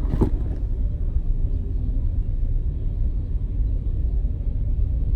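Steady low outdoor rumble with a brief sharp click about a quarter second in.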